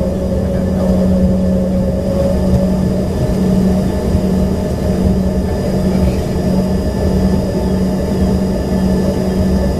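Steady hum and whine of the Embraer ERJ-145XR's rear-mounted Rolls-Royce AE 3007 turbofan engines heard inside the cabin, with a low rumble underneath.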